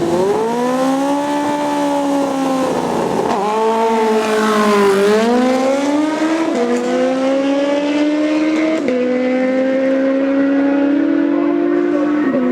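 Racing motorcycle engine at full throttle accelerating down the drag strip, the pitch climbing and then dropping sharply at each upshift, about four shifts.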